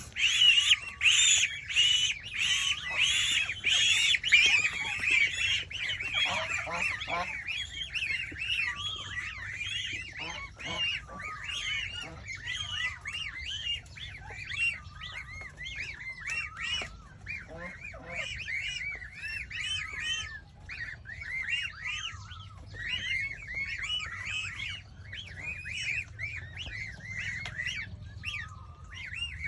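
A flock of goslings peeping: many short, high-pitched calls overlapping continuously, with a few lower calls mixed in.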